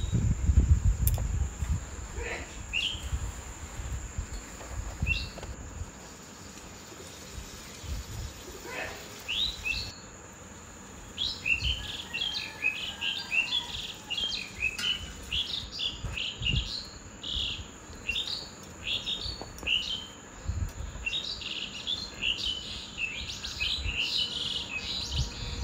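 Small birds chirping: a few scattered short rising chirps, then a rapid, busy run of chirps from about eleven seconds in.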